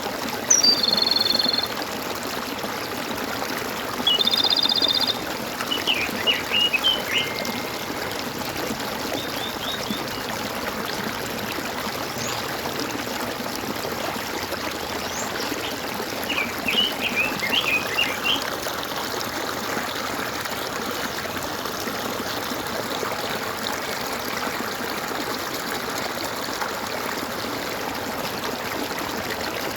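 A stream running and trickling steadily, with birds calling over it: a high trill near the start and another about four seconds in, then bursts of quick chirps around six seconds and again around seventeen seconds.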